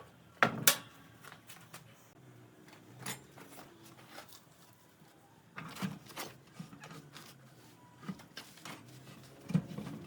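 Scattered knocks and clatter of wood and tools being handled, with two sharp knocks about half a second in and fainter clunks spread through the rest.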